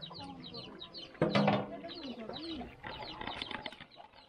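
Birds chirping in quick, repeated high notes, with a louder, lower wavering call about a second and a half in.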